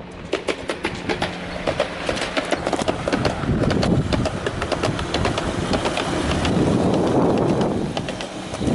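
Train running along the track: a dense run of sharp clicks over a steady low hum and rumble, changing abruptly near the end.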